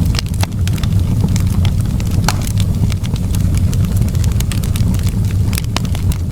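Wood fire in a fireplace crackling: a steady low rumble of the burning fire with irregular sharp pops and snaps.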